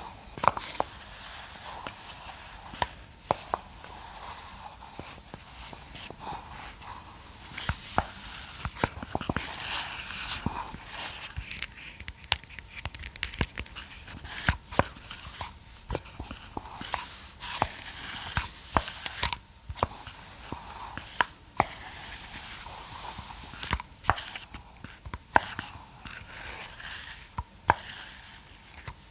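Massage roller ball handled close to the microphone: many sharp, irregular clicks over scratchy rustling.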